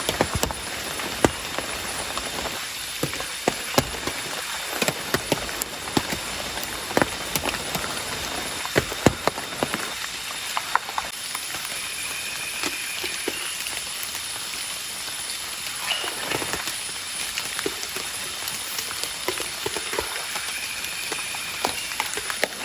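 Light rain falling steadily, with irregular sharp taps of drops striking close by. Twice a faint high call sounds briefly above the rain.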